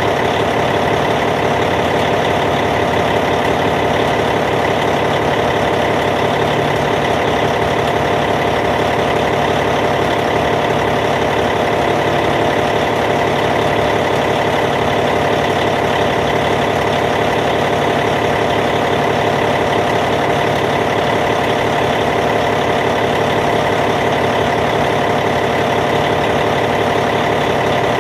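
Caterpillar C15 diesel engine of a Cat D8T bulldozer idling steadily.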